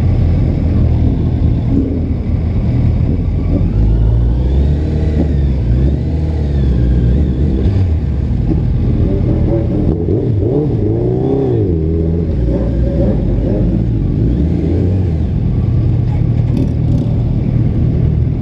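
Motorcycle engine running in city traffic, a loud steady low rumble, with engine notes rising and falling a few times in the middle as revs change.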